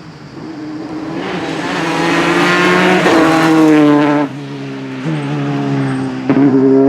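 Rally car engine at full throttle, getting louder as it comes closer. The note drops with upshifts about four and five seconds in. A few sharp cracks come near the end.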